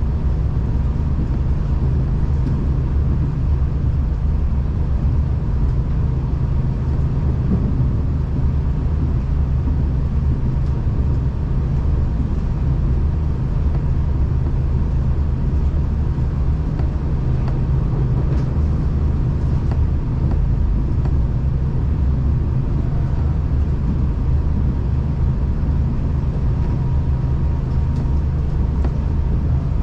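V/Line diesel passenger train heard from inside the carriage: a steady low rumble that holds even throughout, with a faint steady whine above it.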